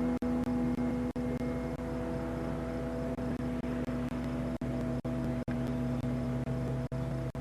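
Rotax 447 two-stroke engine of an ultralight flying wing droning steadily in flight, one even pitch. The sound is broken by several very short dropouts.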